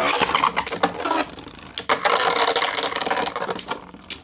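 Two 3D-printed plastic Beyblades spinning and clashing in a stadium: a grinding, scraping whir broken by rapid sharp clicks of the tops striking each other, dying down near the end.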